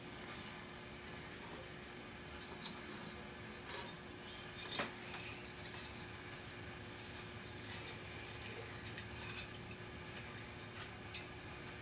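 Light clicks and clinks of hands handling a vintage wire recorder and its wire spool over a faint steady hum and hiss, the sharpest click a little under five seconds in.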